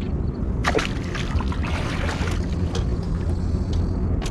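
Steady low rumble of wind buffeting the microphone on a small boat. About a second in there is a brief sharp swishing noise, followed by a second or so of noisy hiss.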